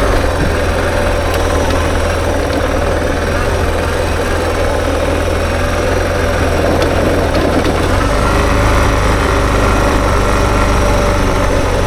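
Suzuki DR650's single-cylinder four-stroke engine running steadily as the motorcycle is ridden.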